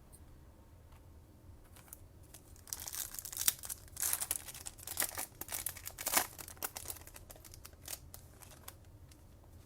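Plastic foil wrapper of a Topps Chrome baseball card pack being torn open and crinkled by hand. It starts about three seconds in as a quick run of crackling and thins out toward the end.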